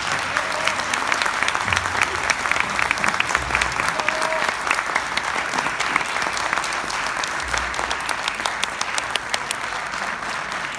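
Audience applauding, a dense steady clapping that thins a little toward the end.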